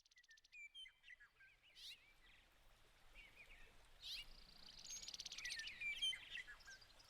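Faint songbirds calling: scattered short whistled chirps and slurred notes, with a fast buzzy trill about halfway through.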